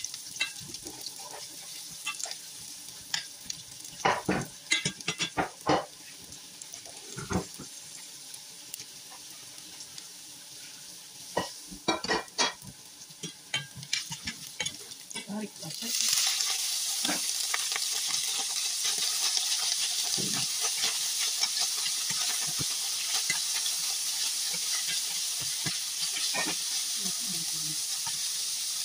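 Sliced red onion and garlic sizzling in oil in a stainless steel pan, with the spatula knocking and scraping against the pan. About halfway through, the sizzle jumps suddenly to a loud, steady hiss as bitter gourd slices go into the hot oil.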